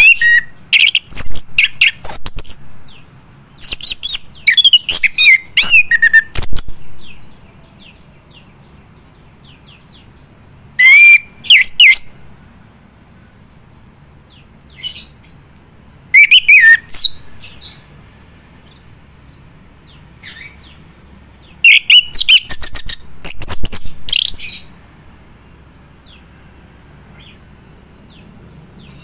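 Male chestnut-capped thrush (anis kembang) singing in full song: about five loud phrases of quick, varied chirps and whistled slurs, each a second or two long, with pauses of several seconds between them.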